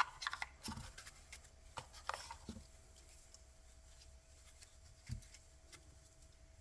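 Faint clicks and soft rustles of tarot and oracle cards being handled and laid down, scattered through the first couple of seconds with one more tap about five seconds in, over a faint steady hum.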